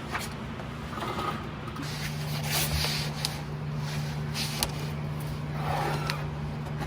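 A steady low mechanical hum, louder from about two seconds in, with scattered scraping and clicking over it.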